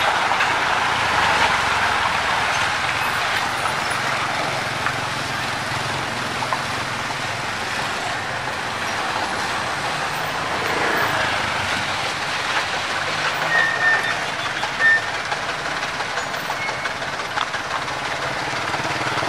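Heavy trucks driving on a rough road: a steady mix of engine drone and road noise. Two short high squeaks come about two-thirds of the way through.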